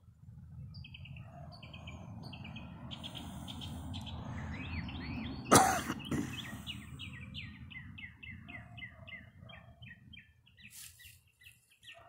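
A songbird calling in quick runs of short falling chirps, over a low steady rumble. One sharp knock about halfway through is the loudest sound.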